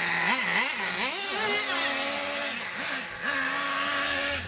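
Small nitro engine of an RC monster truck revving in quick blips, then held at higher speed twice before dropping away at the end.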